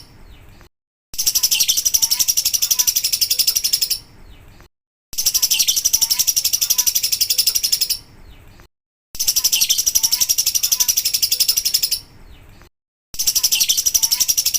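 Lovebird singing its long, rapid, high-pitched chattering 'ngekek' trill, in bouts of about three seconds that start every four seconds with a short break between; the same bout repeats each time.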